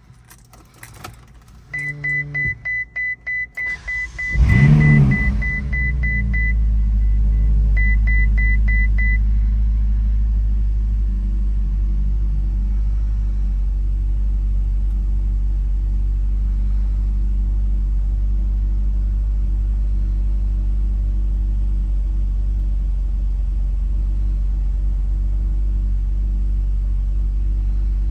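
Ferrari California T's 3.9-litre twin-turbo V8 starting: a few clicks, then a pulsing crank under repeated electronic chime beeps, the engine catching with a brief rev flare about four and a half seconds in, then settling into a steady idle. A few more chime beeps sound shortly after it settles.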